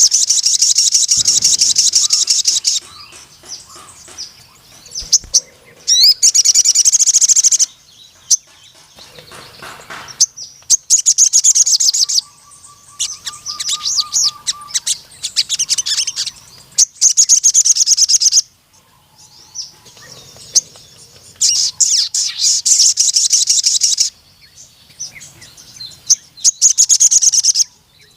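Sogon (ruby-cheeked sunbird) singing in full song: about six long bursts of rapid, high chattering notes, each lasting one to three seconds with short pauses between them.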